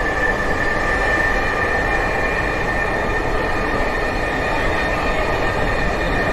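Dhaka Metro Rail MRT Line-6 train running between stations, heard from inside the carriage: a steady rumble with a steady high whine.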